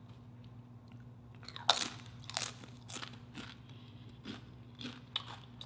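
Close-up crunching of a tortilla chip being bitten and chewed: a series of sharp, crisp crunches starting about a second and a half in and continuing irregularly.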